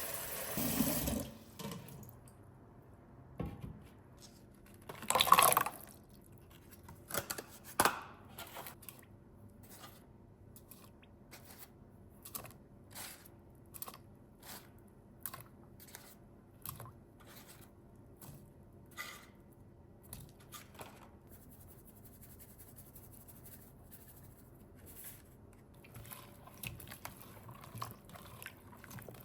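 Kitchen tap running, shut off in the first two seconds. A couple of louder knocks follow, then a slow, even series of faint ticks, about one and a half a second, with light handling sounds near the end.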